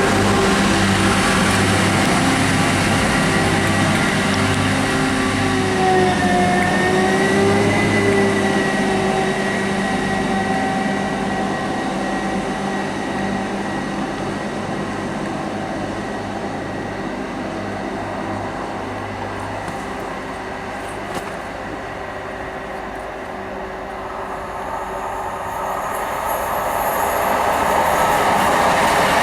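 A train running on the railway, its engine giving a steady note that dips in pitch and recovers about six to eight seconds in. The sound eases off in the second half and grows louder again near the end.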